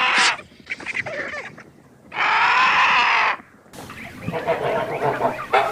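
Two long, drawn-out animal calls, the second lasting about a second, then, after an abrupt change near the end, a busier run of short calls.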